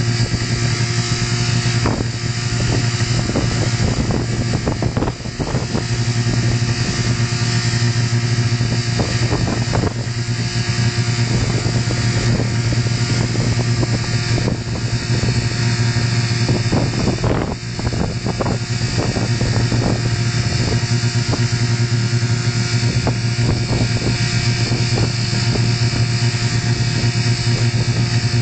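Mazda 626 car engine running steadily at a constant speed, a loud, even drone that holds one pitch, with two brief dips about five and seventeen seconds in.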